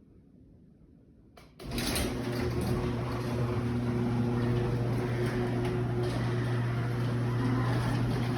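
A steady machine hum with a low drone and a rushing noise over it, starting suddenly after a click about a second and a half in and holding level.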